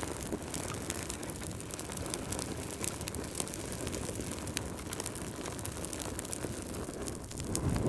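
Fireplace fire crackling, with many sharp pops over a steady low rumble that swells briefly near the end.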